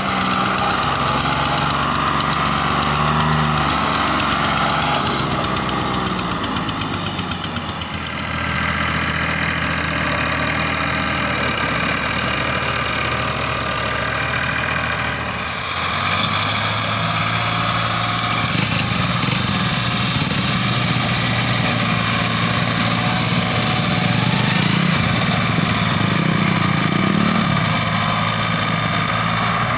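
Tractor diesel engine running steadily, its note shifting about 8 seconds in and again around 16 seconds.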